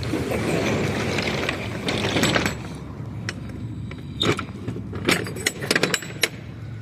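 Handling noise: a rustling rush, then a quick run of sharp metallic clicks and clanks from about four seconds in, over a low steady hum.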